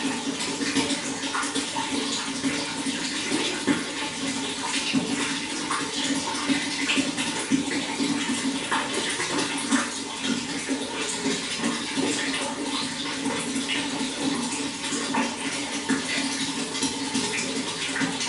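Running water flowing steadily: a continuous rush with a constant low note and many small splashes and drips throughout.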